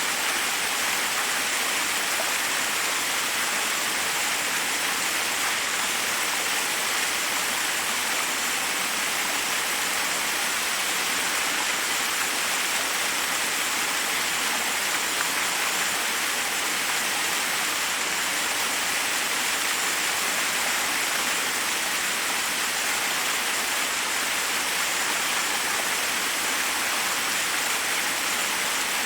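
Forest waterfall: a steady, unbroken rush of water cascading over rocks, mostly a bright hiss with little deep rumble.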